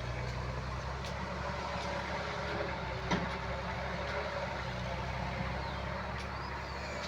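Mahindra tractor's diesel engine running steadily, with a single short knock about three seconds in.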